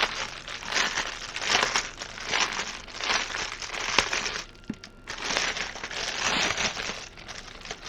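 Small plastic bags of diamond-painting drills being squeezed and handled, a dense crinkling rustle with a short pause about halfway through.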